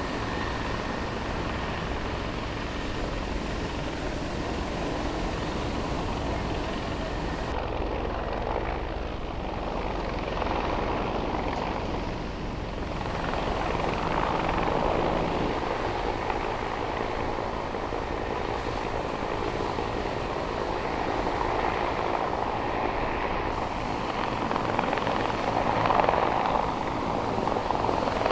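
Rescue helicopter hovering, its rotor beating rapidly over a steady engine drone, growing louder and easing off a little as it shifts position.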